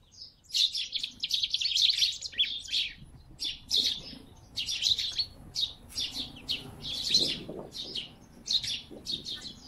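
Small birds chirping busily, in quick clusters of short high chirps one after another.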